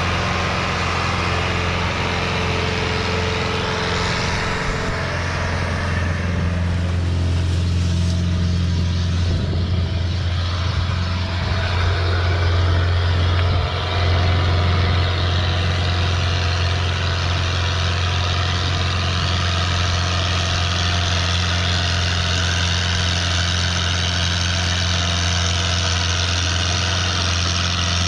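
Fiat 640 tractor's diesel engine running steadily with a deep, even note.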